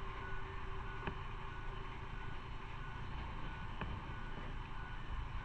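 Motorcycle on the move, heard from the rider's camera: steady engine and road rumble with wind noise. A faint short beep repeats a little more than once a second, and there are two sharp clicks.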